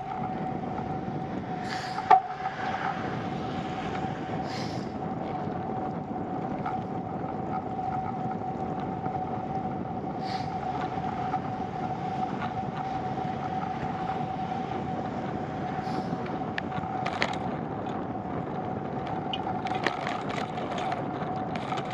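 Steady riding noise from a bicycle on the road, a constant rushing haze with a thin steady whine over it. A single sharp knock comes about two seconds in.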